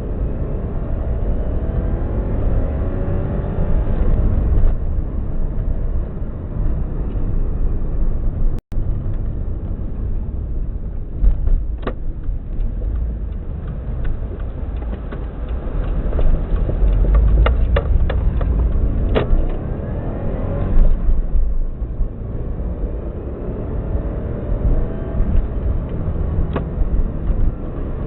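Subaru WRX EJ205 turbocharged 2.0-litre flat-four engine running with a misfire in cylinder 3, which the seller suspects comes from a cracked valve. A few sharp clicks sound in the middle.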